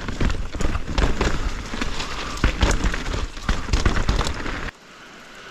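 Mountain bike rattling and clattering over a rough, rooty trail, picked up by a bike- or helmet-mounted camera, with rushing noise and frequent sharp knocks. The noise cuts off suddenly near the end to a much quieter hiss.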